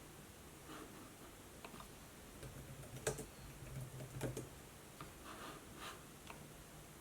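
Faint, scattered clicks and taps from studying at a laptop and notebook, with the sharpest click about three seconds in and a small cluster about a second later.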